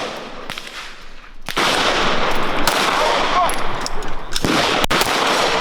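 Gunshots at an outdoor shooting range: several sharp reports spaced irregularly, roughly a second apart, each followed by echo.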